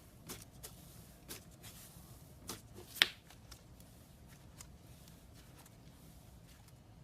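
Scattered small clicks and crackles of something being handled at close range, with one sharper click about three seconds in.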